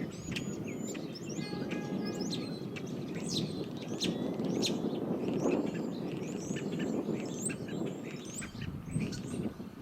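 Small birds chirping and calling in many quick short notes over a steady low rumble.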